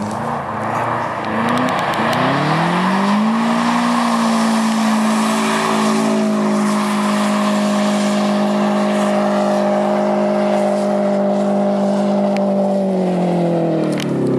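A car engine revving up about two seconds in and held at steady high revs for several seconds as the car slides through a drift on snow, its spinning wheels throwing up snow with a rushing hiss. The revs drop off near the end.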